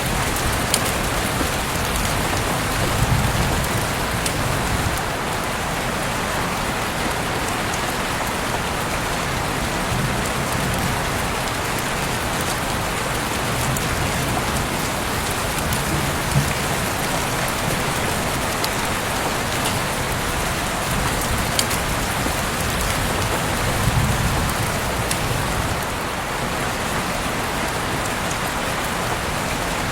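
Heavy rain falling steadily, with scattered sharp drips and taps of drops hitting surfaces and a few low swells in the rumble.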